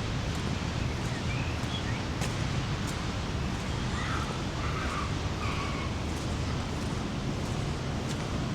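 Steady rush of the Rhine Falls' water, with a bird giving a few short harsh calls about halfway through.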